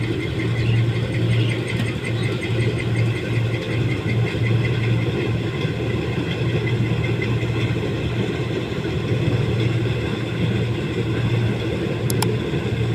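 Combine harvester running steadily: an even diesel engine hum with its machinery turning, and a couple of short clicks near the end.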